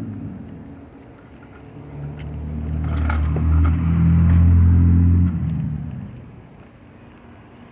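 A motor vehicle passes close by: its low engine sound builds over a few seconds, then drops away and fades about two-thirds of the way through.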